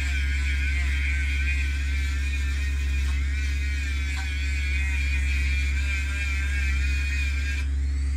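A sanding drum on a small high-speed rotary tool grinding the Honda transmission case: a steady high whine that wavers in pitch, over a steady low hum. The whine drops away for a moment near the end.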